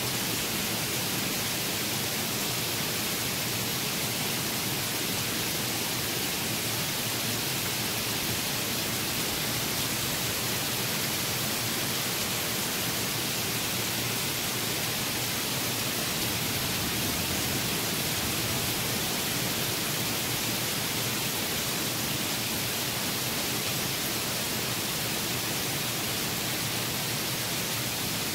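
Heavy rain pouring down steadily in a summer thunderstorm downpour, an even hiss with no let-up.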